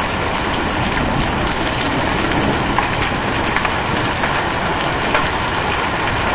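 Penny-size hailstones pelting down in a storm: a steady, dense clatter of countless small impacts, with sharper individual ticks standing out here and there.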